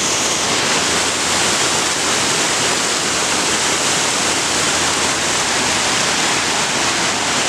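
Water pouring steadily over a large multi-tiered boulder waterfall: a loud, even rush of falling water.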